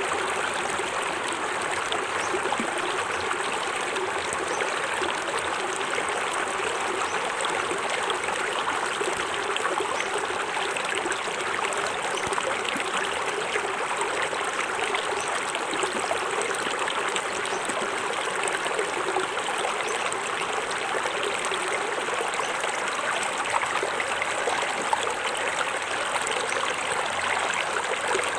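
Small forest waterfall: water splashing and trickling over rocks in a steady, unbroken rush.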